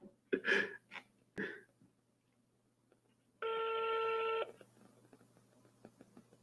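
Telephone ringback tone: one steady pitched beep about a second long, heard while a call is being placed and the other end rings, preceded by a few short clicks and noises.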